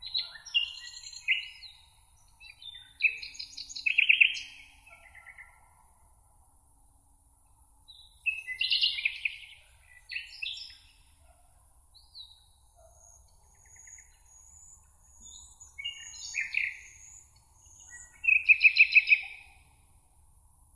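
Songbirds singing: short, complex song phrases a few seconds apart, several ending in a rapid trill of repeated notes, with a faint thin high series of notes in between. A faint steady high hiss runs underneath.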